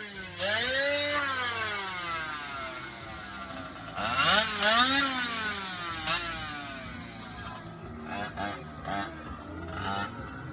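GoPed scooter's small two-stroke engine revving up and easing off twice in long sweeps, then a run of short throttle blips near the end.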